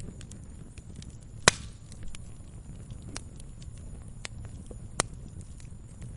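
Wood campfire crackling: a steady low rumble of flames with scattered small crackles, and two loud sharp pops, one about a second and a half in and another about five seconds in.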